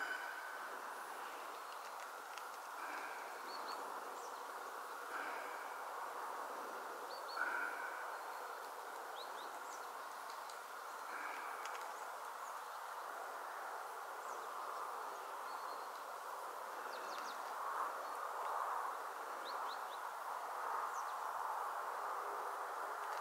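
Steady outdoor background hiss with short, high bird chirps scattered every few seconds.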